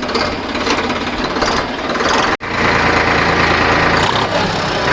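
VST Shakti 9054 DI tractor's Kirloskar diesel engine running under way, a steady dense clatter. It drops out for an instant about halfway, then carries on.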